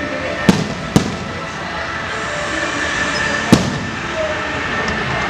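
Fireworks going off: three sharp bangs, two close together near the start and one about three and a half seconds in, over a steady background din.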